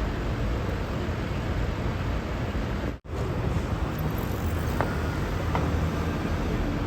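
Steady city street traffic noise, a low rumble of passing vehicles, cut off by a split-second dropout about three seconds in.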